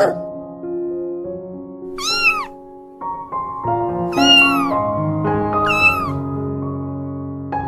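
Three short meow-like animal cries, each rising then falling in pitch, over soft piano music.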